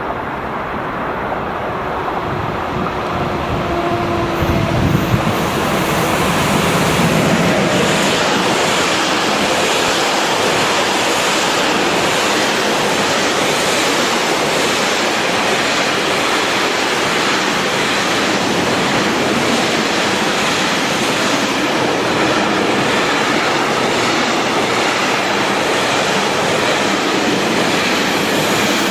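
Freight train passing: a BR 186 electric locomotive goes by and container wagons roll past in a steady rush of wheel and rail noise. The noise builds over the first several seconds, then holds level.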